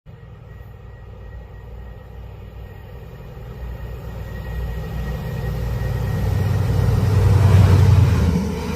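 A train approaching, its low rumble growing steadily louder and peaking near the end.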